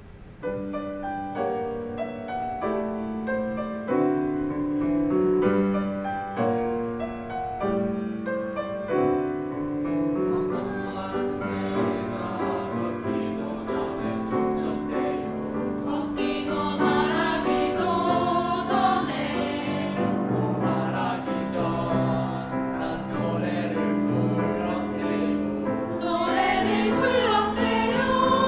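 A choir singing with instrumental accompaniment, likely piano. The music opens with an instrumental introduction of separate notes, and the voices come in about ten seconds in and grow fuller toward the end.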